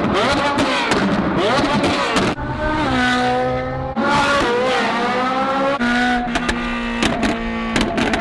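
Ferrari 458 Italia's naturally aspirated F136 V8, a flat-plane-crank engine, revving hard. Its pitch climbs and falls again and again, holds steady for a while in the middle, and a run of sharp pops comes in the last two seconds.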